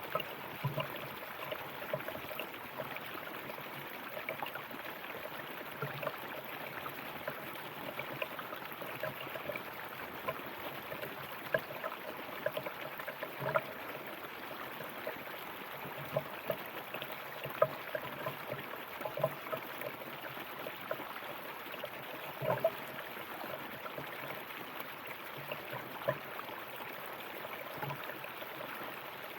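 River water flowing over stones: a steady rush with many small gurgles and plinks.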